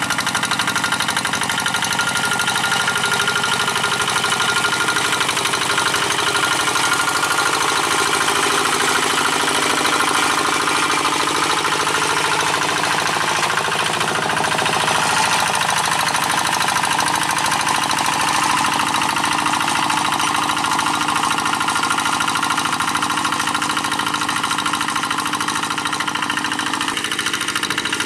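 Single-cylinder diesel engine of a G1000 two-wheel hand tractor running steadily while pulling a moldboard plow through dry paddy soil.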